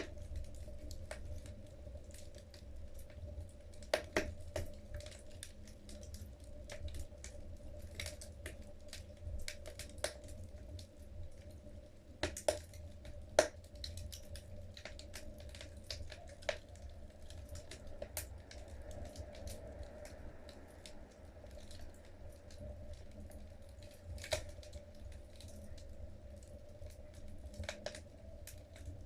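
Wood logs burning in a fireplace, crackling with scattered sharp pops at irregular intervals, a few of them louder, over a low steady rumble.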